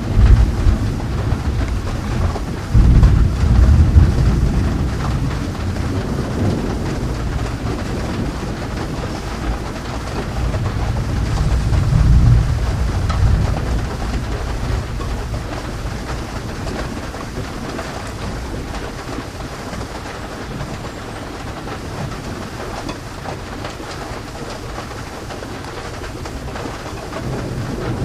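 Thunder rumbling over steady rain. The rolls of thunder come at the start, loudest a few seconds in, and again about twelve seconds in. After that only the rain goes on.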